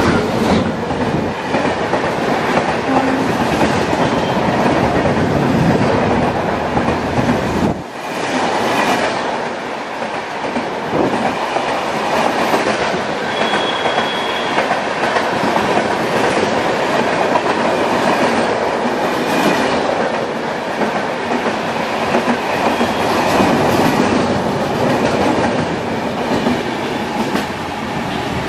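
WAP-7 electric-hauled express train passing at speed: continuous loud rumble and clickety-clack of coach wheels over the rails. The noise briefly drops about eight seconds in, and a short high wheel squeal comes near the middle.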